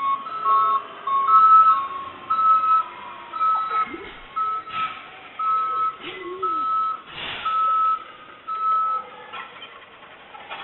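Garbage truck's backup alarm beeping steadily while reversing, about one beep every 0.7 seconds, stopping about nine seconds in, with a few knocks from the truck along the way.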